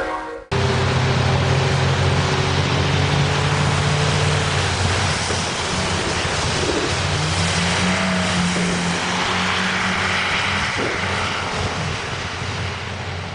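A vehicle engine running steadily under a loud rushing noise. Its note rises about halfway through and then holds.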